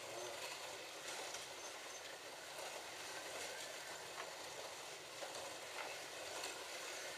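Slot cars running around a plastic track: a steady whirring hiss of their small electric motors and tyres, with a few faint clicks.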